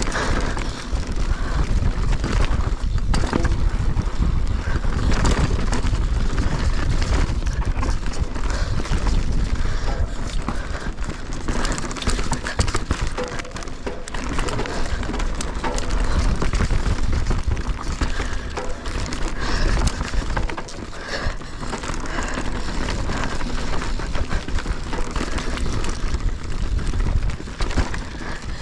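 Mountain bike descending a rough dirt trail at speed: wind rumbling on the GoPro microphone, tyres scrabbling over dirt and rocks, and the chain and frame clattering with many sharp rattles throughout.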